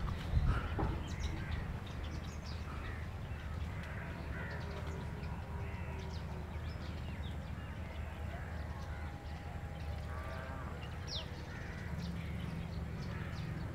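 Birds calling at intervals, short scattered calls with a quick run of rapid notes about ten seconds in and a sharp falling note just after, over a steady low rumble.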